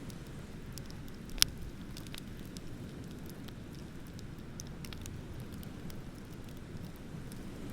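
Bonfire crackling with scattered sharp pops, one much louder pop about a second and a half in, over a steady low rumble of ocean waves.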